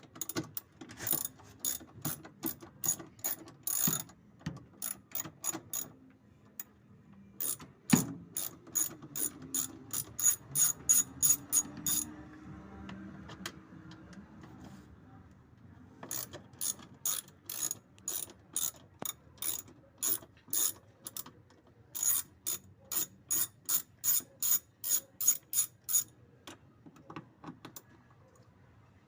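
Hand ratchet wrench with an 8 mm socket clicking in long runs of even strokes, about three clicks a second, as bolts are backed out of a washing machine's transmission. There are short pauses between the runs.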